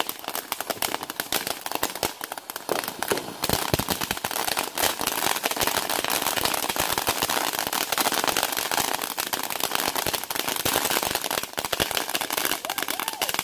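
Consumer fireworks going off in a dense, continuous run of rapid crackling pops.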